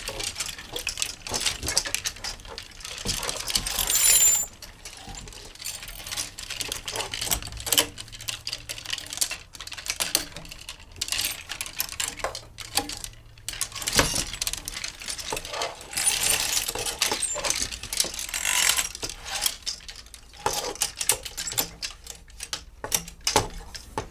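Clothes hangers sliding and scraping along a metal rail, with many irregular clicks and clinks as they knock together. There is a longer, louder scrape at about four seconds and again in the second half.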